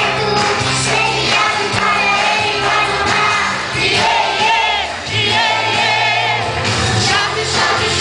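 Children's choir singing a gospel hymn in Portuguese over instrumental accompaniment with sustained bass notes.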